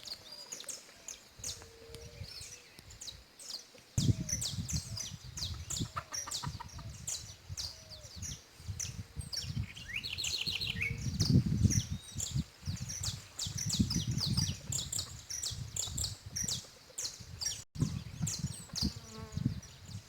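Saffron finches (canário-da-terra) chirping and trilling, many short high notes one after another. Under them, from about four seconds in, a low rumbling noise, loudest near the middle.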